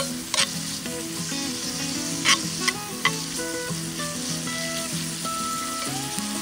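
Diced bacon and onion sizzling in oil and butter in a skillet, stirred with a metal spoon that scrapes and clicks against the pan a few times, sharpest about two seconds in.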